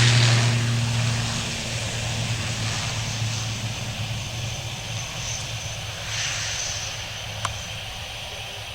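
Airliner engines running with a steady low hum and hiss, dying away steadily as the plane moves off. A brief click sounds near the end.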